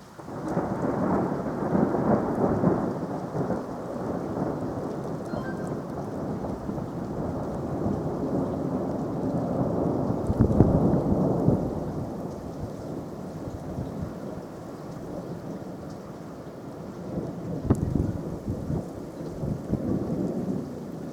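Thunder rolling, breaking in suddenly at the start and swelling again about halfway through and near the end, with rain falling.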